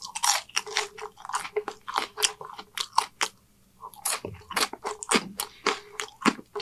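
Close-miked chewing of French fries: many short crunches and wet mouth clicks, with a brief pause a little past halfway through.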